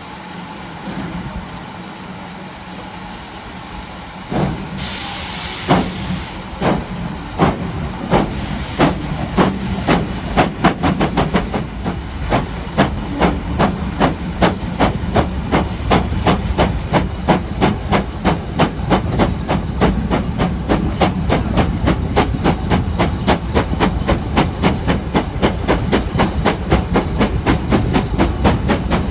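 Ex-GWR 56xx-class 0-6-2 tank engine 5619 pulling away under steam: its exhaust beats start about four seconds in, slow at first, and quicken steadily to about three a second. A short burst of hiss comes near the first beats.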